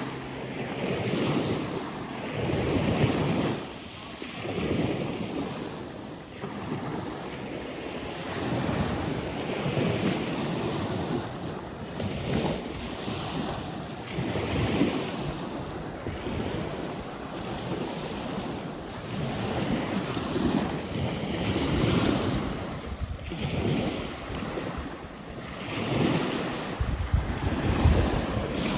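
Wind buffeting the microphone outdoors, in gusts that swell and fade every couple of seconds, with a heavier low rumble near the end.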